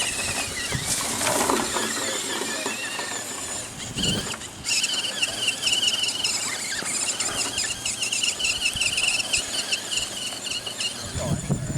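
Electric motor and gearbox of a radio-controlled Tamiya CR01 crawler truck whining, the pitch wavering up and down with the throttle. The whine breaks off briefly about four seconds in and stops shortly before the end.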